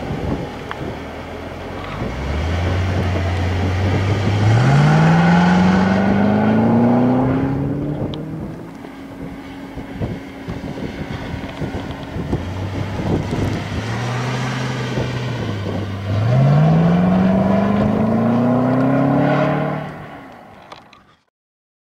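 Supercharged 6.2-litre V8 of a 2011 Cadillac CTS-V Wagon accelerating hard twice, the engine note rising steadily in pitch for several seconds each time. The sound fades away and cuts off near the end.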